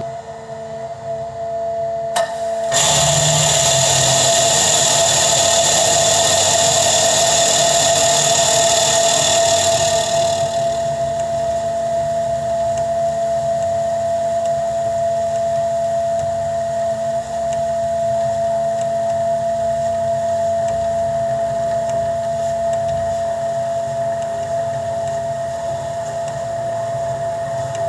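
Farm machinery running with a steady whine, and a louder hissing rush from about three to ten seconds in.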